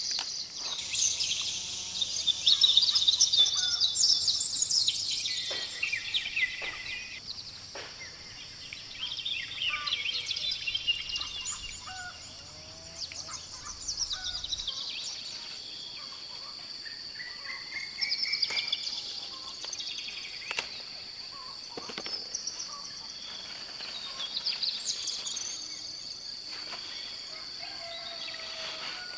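Birds chirping and calling, busiest in the first several seconds, over a steady high-pitched insect drone.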